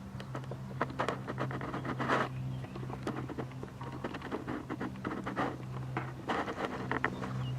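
Irregular crunching and rustling, like movement through dry leaf litter, louder about two seconds in and again near the end, over a steady low hum.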